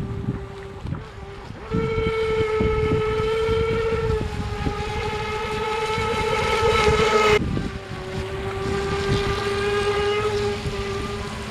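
Brushless RC boat motor (Rcharlance 3650 3900KV) whining as the Pro Boat Stealthwake runs on the water; the whine steps up in pitch about two seconds in, rises a little, drops off suddenly about two-thirds of the way through and then picks up again. Wind rumbles on the microphone underneath.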